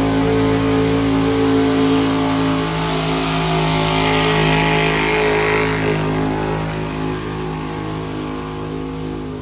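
Engine of a pulling vehicle running loud at a steady pitch during a pull, slowly fading over the second half.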